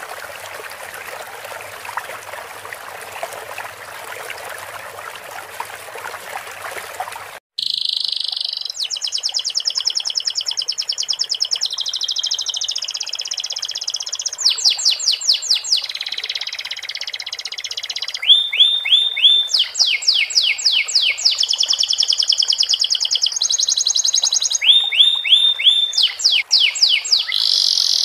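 Running water trickles steadily, then cuts off abruptly after about seven seconds. A domestic canary follows, singing fast trills and rapid runs of repeated notes, including 'isian' phrases in the style of the sikatan londo flycatcher.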